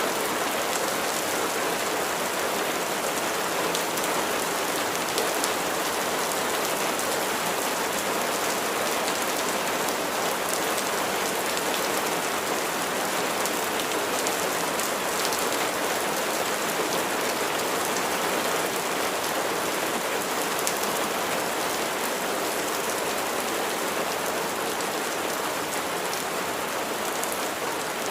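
Steady rain falling on a surface, a dense even patter of drops with no let-up or thunder.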